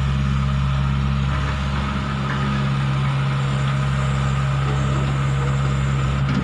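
Diesel engine of a Hitachi 120 excavator running steadily at a constant speed.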